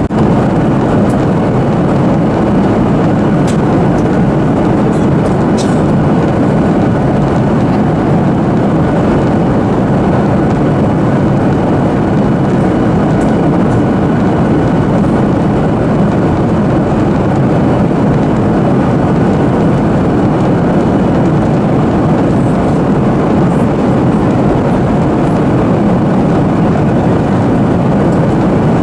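Steady cabin noise inside a Boeing 737-800 airliner in descent: the airflow and engines as heard from a passenger seat, with a faint thin whine above it.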